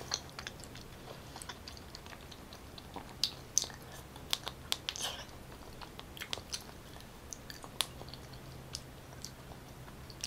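Close-miked chewing of raw salmon sashimi: soft wet mouth clicks and smacks, scattered irregularly, over a faint steady low hum.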